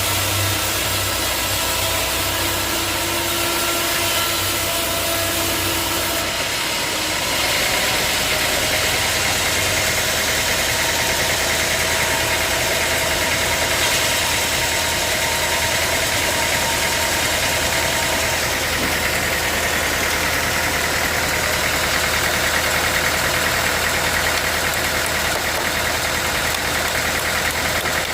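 Sawmill engine running steadily, its pitch and tone shifting about seven seconds in.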